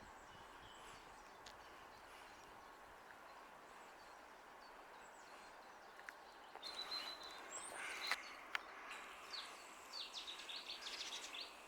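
Faint outdoor ambience, then from about halfway birds calling: short high chirps, a quick rising whistle and a fast run of notes near the end.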